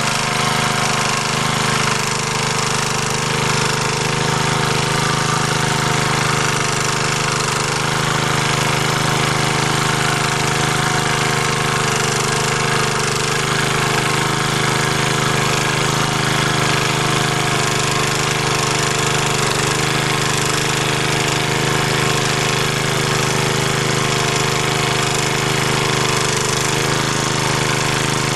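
MD3 walk-behind tractor's engine running steadily under load as its rotary tiller mills the garden soil in first gear.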